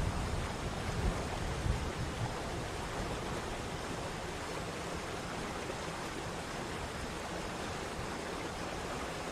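Waterfall water rushing in a steady roar, with a heavier uneven low rumble over the first couple of seconds.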